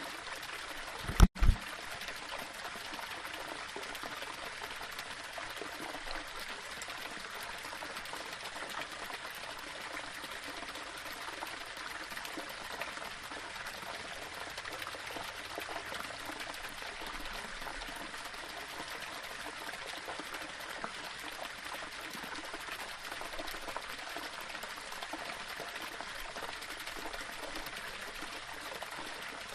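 Small waterfall running and trickling over stones, a steady rush of water. About a second in, a brief low double thump cuts through it.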